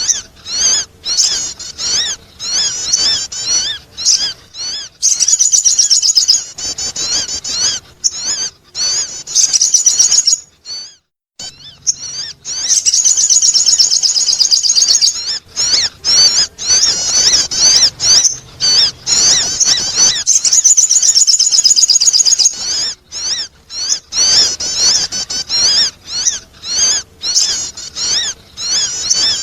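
Sogon bird lure call: rapid, high-pitched chirping and trilling in long runs broken by short pauses, with a brief silent gap about 11 seconds in.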